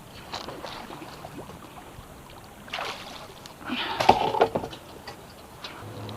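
Small boat on the water with light sloshing and handling knocks, then a louder splash-and-clatter burst about four seconds in; a low steady hum starts near the end.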